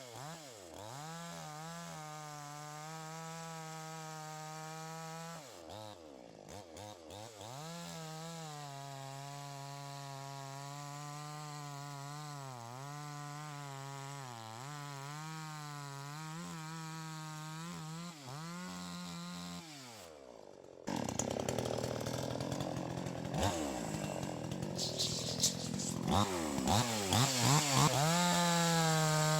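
Gas two-stroke chainsaw running at high revs and cutting wood, its pitch sagging under load and climbing again as the chain frees up, over and over. About twenty seconds in it breaks off briefly, then comes back louder and rougher.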